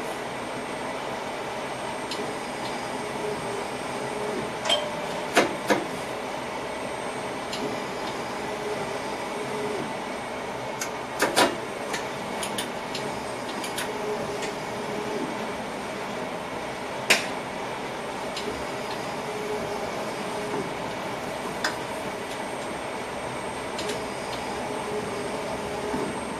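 Passenger train heard from inside the driver's cab: a steady hum and rumble with faint whining tones, broken by a few sharp clicks or knocks, two pairs among them.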